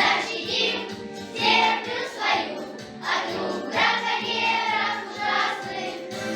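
A children's choir singing over instrumental accompaniment.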